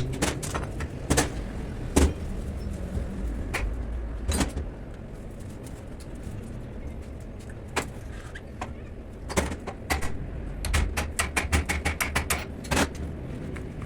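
Scattered sharp metallic knocks and clicks of hand tools on a car's suspension parts, with a quicker run of clicks about eleven seconds in, over a low steady rumble.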